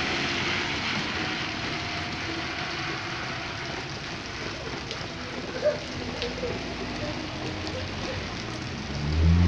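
Steady hiss of rain falling, with a brief sharp sound a little past halfway. Near the end a car engine comes up, rising in pitch as it accelerates.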